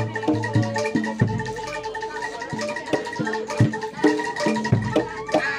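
Live Javanese gamelan music for kuda lumping: metallophones ring a repeating melody over low gong-like notes and regular drum strokes.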